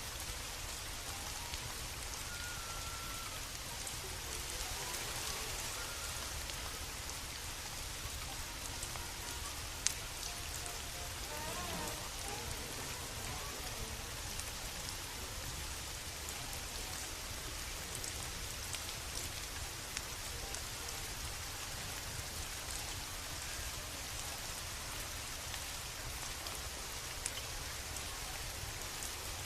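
Steady rain falling, with a low rumble underneath and a few sharp ticks, the loudest about ten seconds in.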